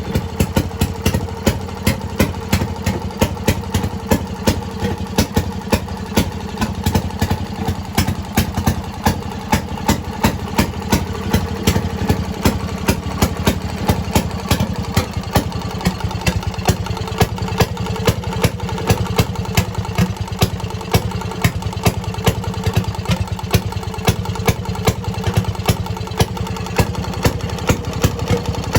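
Fairmont RO-C two-stroke rail car engine running steadily at a low idle, each firing stroke heard as an even, regular beat.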